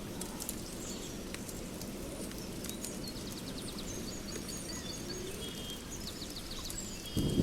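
Nature soundscape: a steady low rushing noise with small birds chirping in short quick runs and scattered faint crackles. A louder low rumble comes in near the end.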